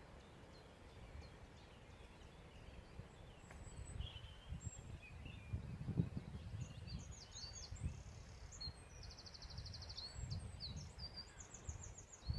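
Small birds chirping, with quick high trills in the second half, over low irregular rumbling.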